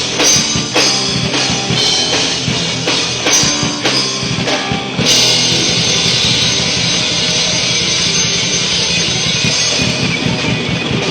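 Live rock band with drum kit and guitar. Drum and cymbal hits for about five seconds, then a held, steady wash of cymbals and chord.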